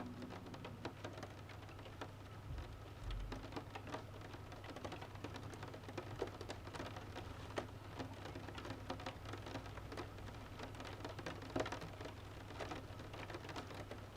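Rain pattering, heard as many irregular light ticks of drops, over a steady low hum.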